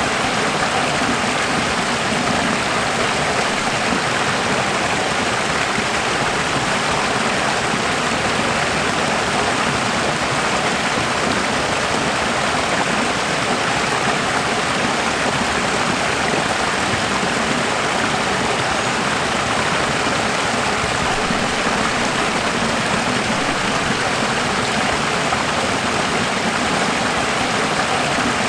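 Running water: a steady, even rush of flowing water that does not change.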